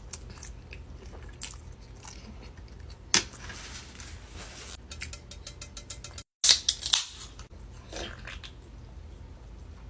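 A person eating close to the microphone: chewing and biting with wet, crackly mouth sounds. There is a sharp bite about three seconds in, and after a momentary dropout a little past six seconds come the loudest bites.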